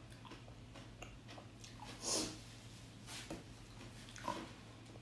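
A person eating close to the microphone: soft chewing and mouth sounds, with a louder short burst about two seconds in and two smaller ones later.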